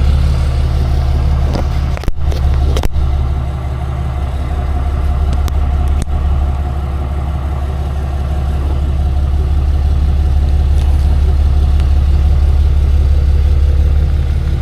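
Tow truck engine idling steadily with a low, even hum, with a few short clicks or knocks about two, three and six seconds in.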